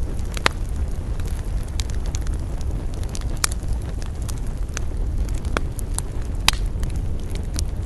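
Campfire crackling, with irregular sharp pops, the loudest about half a second, three and a half and six and a half seconds in, over a steady low rumble of wind.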